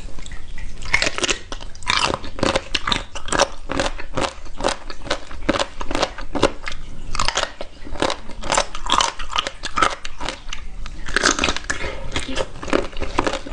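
Close-miked eating of crunchy food: bites and chewing, with rapid crisp crunches several times a second.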